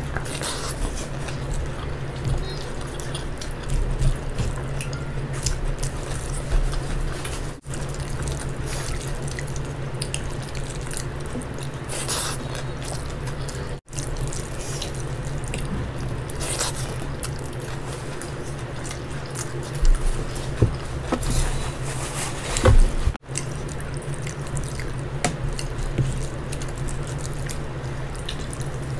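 Close-miked wet eating sounds: chewing of saucy fried rice and noodles eaten by hand, with many short wet mouth clicks, over a steady low hum. The sound drops out briefly three times.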